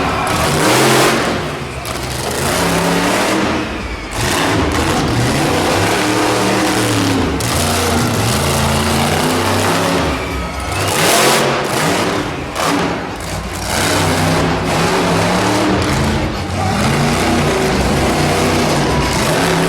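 Monster truck engine revving hard over and over, its pitch climbing and dropping as the throttle is worked. Two short, loud rushing bursts stand out, about a second in and again about eleven seconds in.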